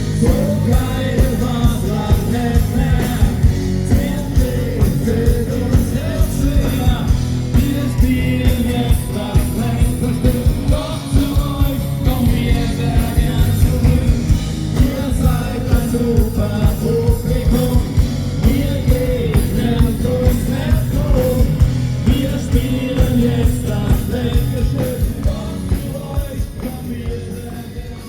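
A live rock-and-roll band playing a song: a sung vocal over the full band, with drums keeping a steady beat.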